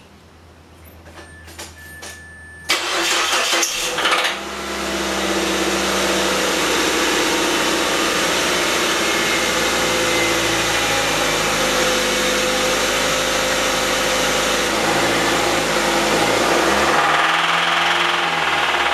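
Car engine cranked by the starter and catching after about a second and a half, then running steadily at idle, with a short rise and fall in engine speed near the end. This is the engine the owner believes is knocking from an overheated, loose rod bearing. A brief electronic tone sounds before the cranking.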